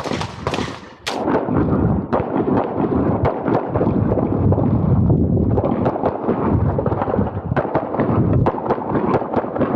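Semi-automatic handgun fired over and over in fast strings as a competitor shoots an IPSC stage. The shots come close together, from about a second in to the end.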